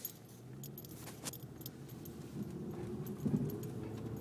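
Light metallic jingling and clicks in the first second or so, then a car's engine and road noise from inside the cabin, rising steadily in level.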